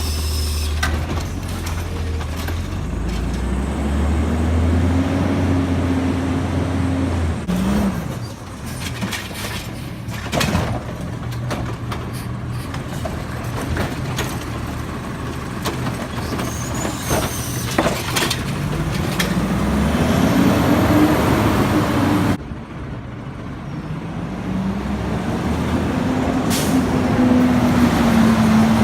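Garbage truck engine running, revving up and back down three times as it drives the hydraulics, with sharp metallic clanks and short air hisses in between.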